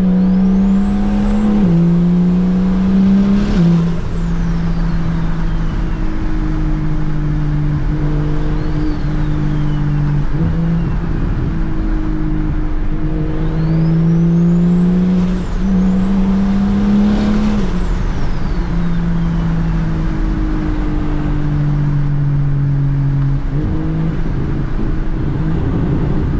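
Single-turbo BMW N54 inline-six pulling hard through the gears twice, its note climbing and dropping back in steps, with the turbo's high whistle rising over each pull and sliding back down as it lets off.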